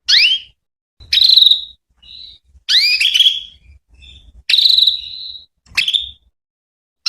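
Female canary calling: a series of short, upward-sweeping whistled call notes about once a second, two of them drawn out a little longer.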